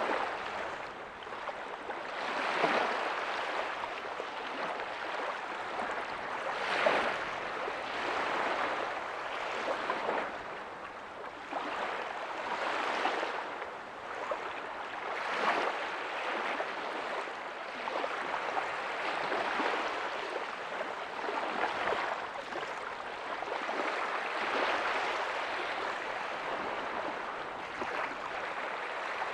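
Ocean surf: small waves breaking softly on a beach, a continuous wash of water that swells every few seconds.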